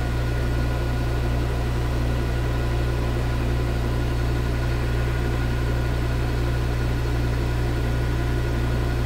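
Metal lathe running steadily at about 650 rpm, a constant motor and gear hum, while a high-speed steel tool takes a light facing cut on aluminium.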